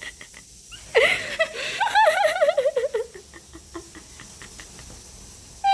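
A person laughing, a quick wavering run of voiced pulses that falls in pitch and fades, starting about a second in.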